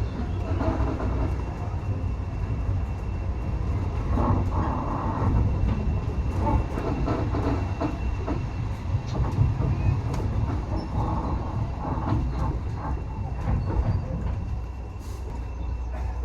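Railway carriage running along the line, heard from on board: a steady low rumble with scattered clicks and knocks from the wheels over the rails.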